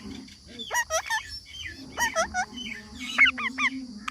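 Parrot squawking: short calls that bend sharply in pitch, coming in clusters, with a quick run of four near the end.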